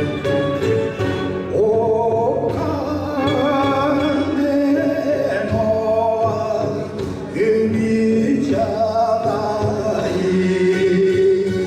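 A solo voice singing a slow melody with long held, wavering notes over backing music.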